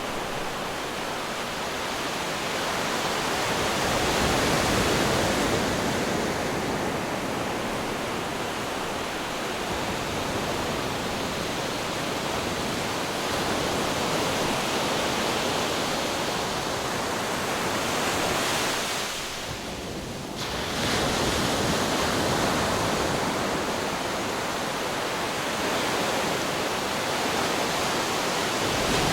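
Ocean waves breaking against rocks: a continuous rushing surf that swells and ebbs, easing off briefly about two-thirds of the way through before the next wave surges in.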